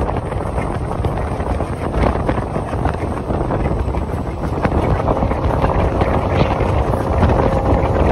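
Wind buffeting the microphone at the open door of a moving passenger train, over the steady rumble and clatter of the coaches running on the track. A faint steady tone joins about five seconds in.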